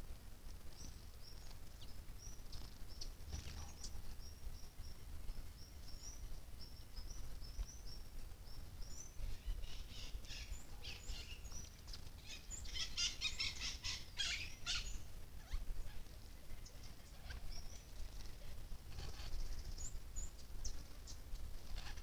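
Small songbirds giving thin, high chip notes, scattered at first, then a dense run of rapid calls in the middle, then a few more near the end. A low steady rumble runs underneath.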